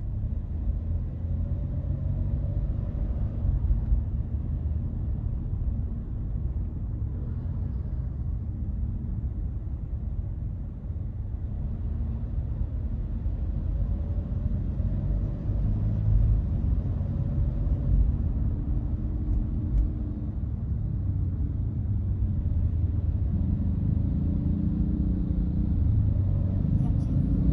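Hyundai Casper compact car driving on the road: a steady low rumble of engine and road noise, its pitch drifting up and down slightly with speed.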